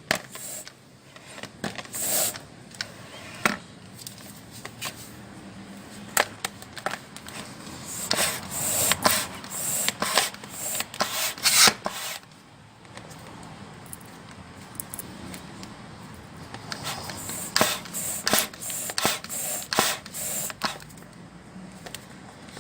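Hand balloon pump worked in quick strokes, short puffs of air with plastic clicks, blowing the last of the gear oil out through the drain hole of a GY6 150cc scooter's gearbox. The strokes come in two busy spells, about eight seconds in and again a few seconds before the end.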